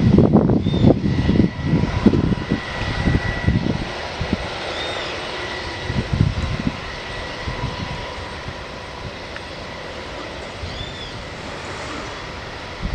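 UH-60 Black Hawk helicopter running, turbine and rotor noise. It comes with heavy gusty low rumble for the first few seconds, then settles to a steadier, quieter hum.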